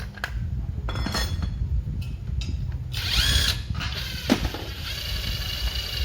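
A power tool runs in two short bursts with a whine, about halfway through and again near the end. Sharp clicks of tools on metal fall between the bursts.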